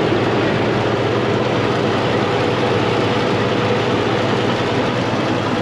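Continental gasoline six-cylinder engine of a 1945 Oliver Cletrac AG6 crawler tractor running steadily and smoothly.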